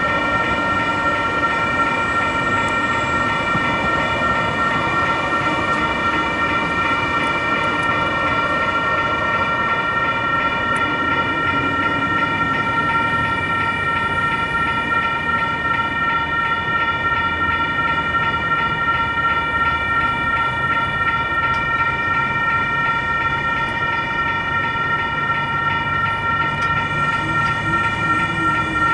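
Railroad crossing warning bell ringing steadily and without a break, over the rumble of an RTD light rail train on the tracks.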